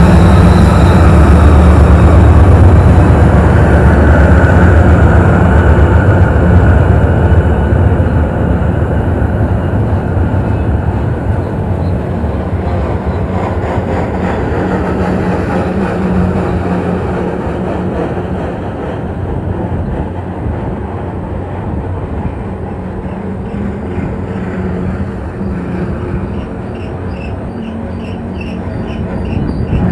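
Freight train passing: the diesel-electric locomotives' engines run loud with a heavy low hum for the first several seconds, then fade about eight seconds in. The steady rolling rumble of tank cars on the rails follows. Near the end, a quick rhythmic high-pitched squeak from the wheels joins in.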